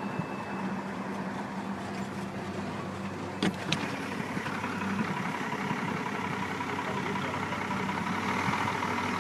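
High-water fuel delivery truck's engine running steadily while the truck is stopped, with two sharp clicks close together about three and a half seconds in.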